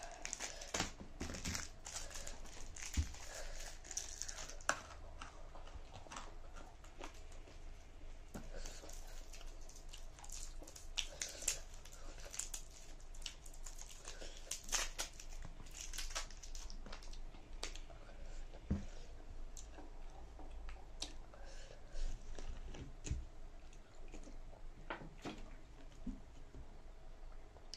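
A person eating 2× spicy Korean ramen noodles: close chewing and mouth sounds, with many small irregular clicks and smacks.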